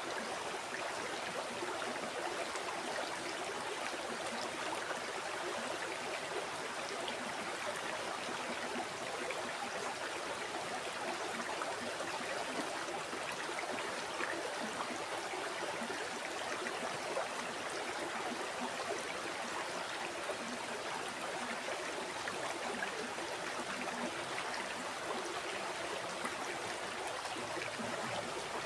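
A river or stream flowing steadily, an even rush of water with fine bubbling and splashing detail and no distinct events.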